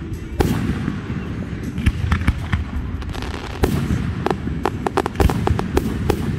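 Fireworks going off: a string of sharp bangs and cracks over a low rumble, coming thicker and faster in the second half.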